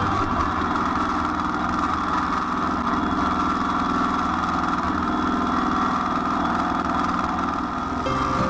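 Kubota L3901 tractor's three-cylinder diesel engine running steadily.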